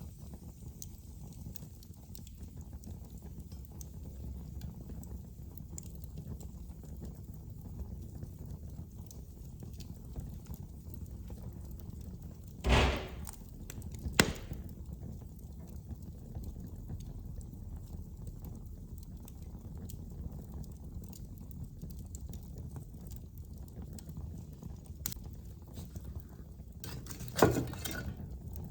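Fire burning in a fireplace: a steady low rumble with faint scattered crackles, and a few sharp loud pops, twice about halfway through and once near the end.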